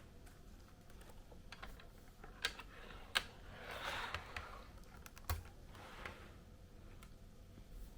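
Irregular sharp clicks and short soft rustles from small plastic parts being handled, a few single clicks standing out, the loudest about three seconds in.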